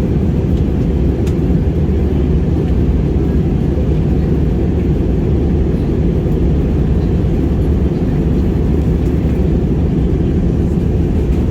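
Steady low rumble of an airliner's jet engines and rushing airflow, heard inside the passenger cabin as the aircraft prepares for arrival.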